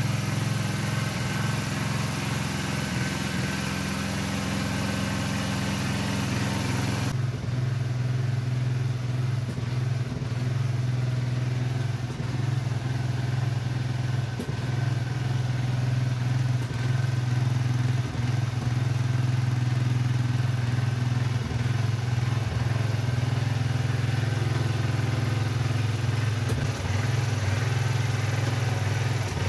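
Tractor engine running steadily at a constant speed, with a low drone. About seven seconds in, the high hiss above it drops away abruptly.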